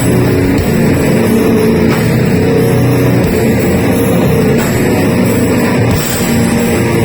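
Heavy metal band playing live, loud and without a break, with electric guitar over the band.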